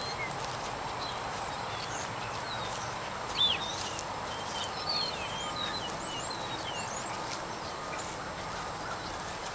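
Birds chirping, a scatter of short high call notes through the middle, over a steady background hiss.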